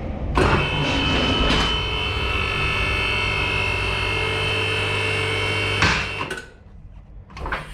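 Electric motor of a car lift running steadily under load as it raises the car, a low hum with a high whine over it. It starts just under half a second in and stops after about five and a half seconds.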